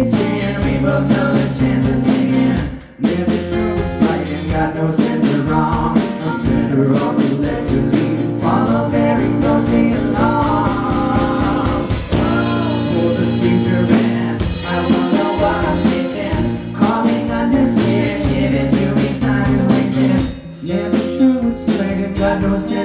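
Rock band playing a song live: drums keeping a steady beat under bass and electric guitar, with a voice singing in places. The music briefly drops out about three seconds in and again near the end.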